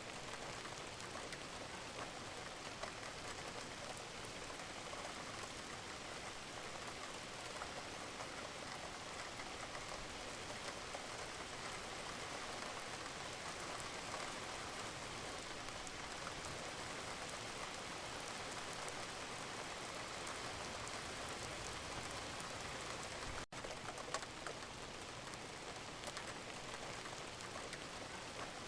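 Steady rainfall, an even hiss of falling rain flecked with the ticks of individual drops. About three-quarters of the way through it drops out for a split second, then carries on unchanged.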